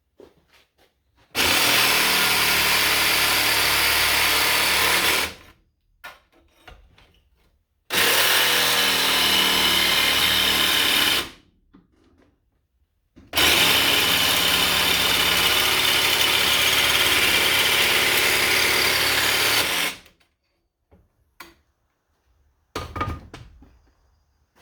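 A power tool runs in three bursts of a few seconds each, the last and longest about six and a half seconds, with quiet pauses between them. It is cutting the marked holes and slots for an engine mount.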